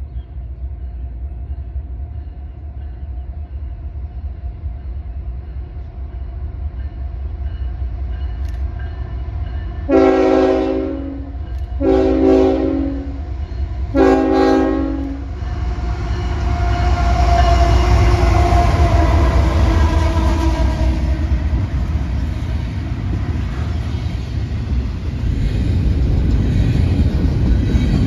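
Diesel freight train approaching and passing: the low rumble of the Union Pacific locomotives builds, the multi-tone air horn sounds three blasts of about a second each near the middle, then the engines pass loudly and double-stack container cars roll by with steady wheel noise.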